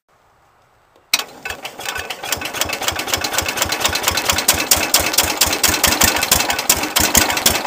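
Cub Cadet 107's Kohler K-241A 10 hp single-cylinder engine being cranked for a cold start on full choke and half throttle, starting about a second in and turning over with a rapid, even beat without catching.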